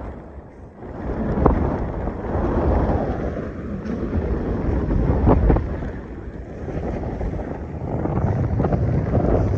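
Strong wind buffeting the microphone in gusts, a low rushing rumble that swells and fades and grows loudest near the end.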